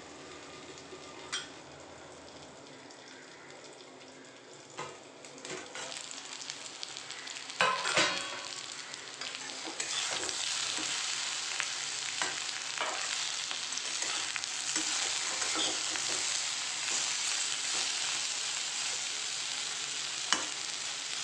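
Raw banana slices frying in oil in a steel kadai, sizzling steadily while a metal spatula stirs them, knocking and scraping against the pan, loudest about eight seconds in. The sizzle grows louder from about ten seconds in. The slices are turning golden brown and soft.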